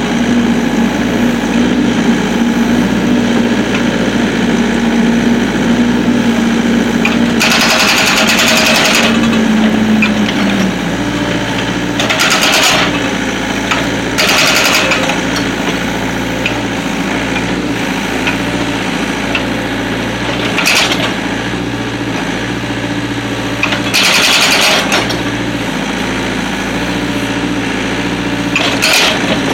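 Excavator's diesel engine running steadily while its hydraulic breaker hammers in about six short bursts of a second or two, splitting logs. The engine note drops about ten seconds in.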